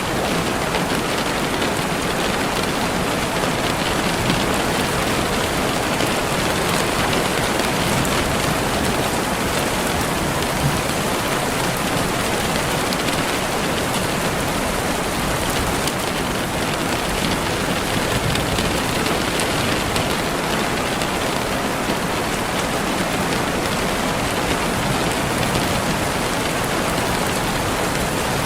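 Steady rain falling on a surface, an even, dense hiss of many drops with no letup.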